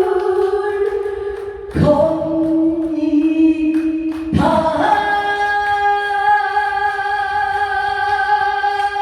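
A woman singing a trot song in long held notes, the pitch stepping twice, then one note held for about five seconds as the song's closing phrase.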